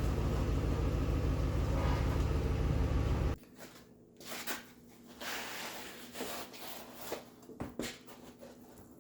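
A motor running with a steady low hum, cutting off suddenly a little over three seconds in. After that there are scattered light clicks and knocks.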